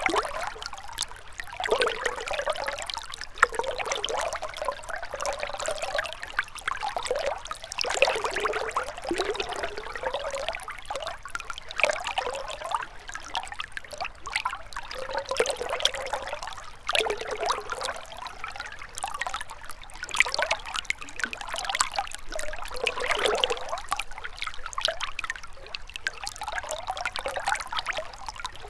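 Gentle river flowing: a steady, uneven trickle of moving water.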